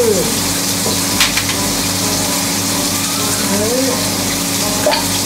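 Steady sizzle of food frying in a frying pan, over a low steady hum, with a single sharp click about a second in.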